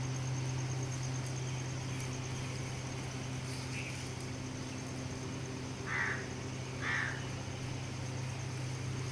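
Two short bird calls about a second apart, over a steady low hum and a thin high steady drone.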